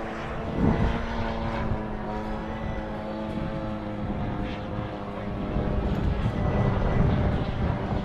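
Radio-control model airplane flying, its engine a steady pitched drone that gets louder about halfway through.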